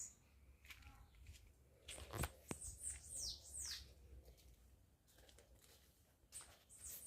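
A few faint, high chirps that slide down in pitch, from a small bird, with light rustling and a click.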